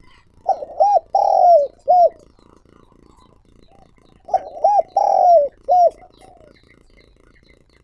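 Spotted dove cooing: two phrases, each of four arched, hooting notes with a longer third note, starting about half a second and about four seconds in. This is the territorial call of a male decoy bird.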